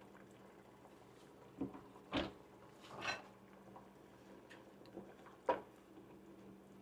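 Faint kitchen handling sounds: five or so separate light knocks and clicks spread over several seconds, the sharpest near the end, over a low steady hum.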